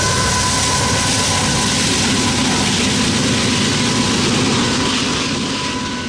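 Freight train of covered hopper grain cars rolling past: a loud, steady rumble and rush of wheels on rail, with a steady high squeal over it, fading away near the end.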